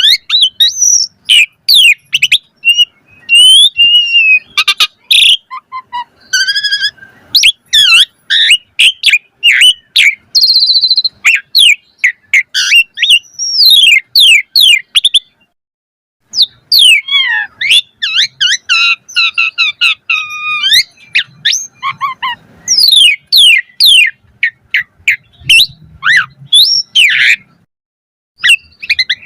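Asian pied starling (jalak suren) singing a long, varied song: rapid whistles, up-and-down sweeping notes and squeaky chattering phrases, broken by a short pause about halfway through and another near the end.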